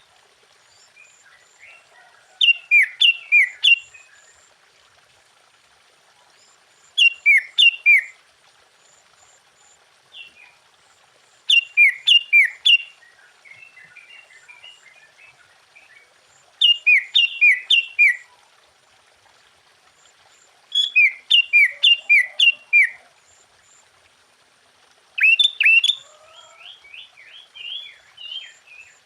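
Sooty-headed bulbul singing: six loud phrases of four or five quick notes, each falling in pitch, repeated about every four to five seconds, with softer twittering between them.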